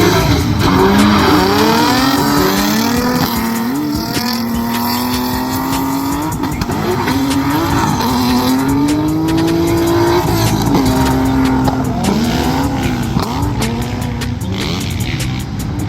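Drift car engine revving hard, its pitch rising and falling over and over as it is worked through a run, with tyres squealing.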